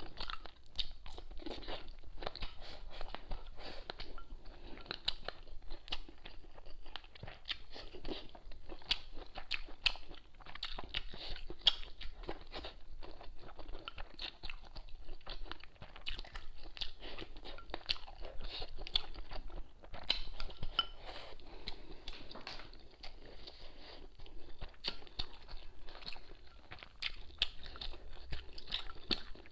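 A person chewing and biting mouthfuls of spicy hotpot food and rice: an irregular, steady run of small clicks and crunches.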